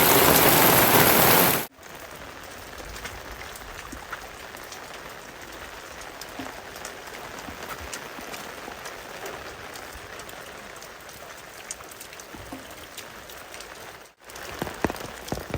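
Heavy rain, loud and dense, cutting off abruptly about two seconds in to much quieter light rain with scattered individual drops ticking; another sudden change near the end.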